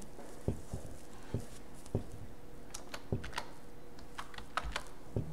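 Computer keyboard keys tapped in an irregular run of about fifteen sharp clicks, some heavier and some lighter, over a faint steady hum.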